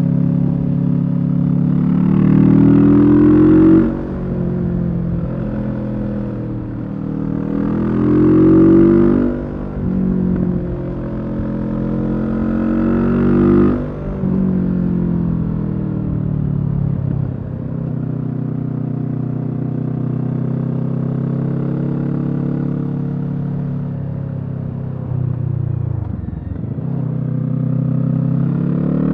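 Kawasaki Z650's parallel-twin engine through a Leo Vince EVO Carbon aftermarket exhaust, accelerating hard through three upshifts, the pitch climbing and dropping sharply at each shift. It then holds a steady cruise, eases off briefly and pulls up in revs again near the end.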